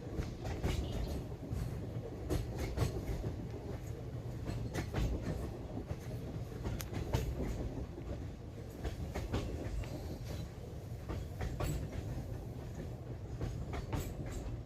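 A moving passenger train running on the track: a steady low rumble with irregular clicks and knocks from the wheels over the rails.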